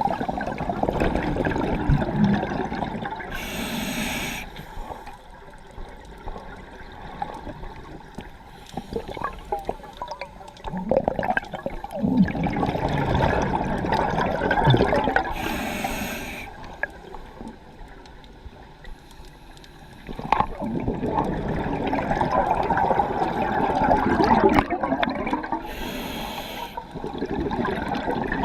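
Scuba diver breathing through a regulator underwater: three short hissing inhalations about ten seconds apart, each followed by a long stretch of exhaled bubbles.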